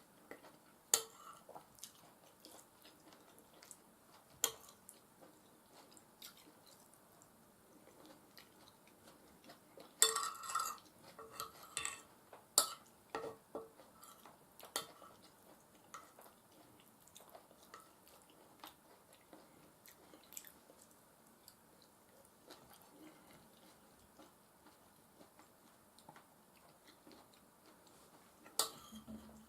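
Eating sounds: cutlery clicking against a plate now and then, with a busier run of clinks and scraping about ten seconds in, and soft chewing between.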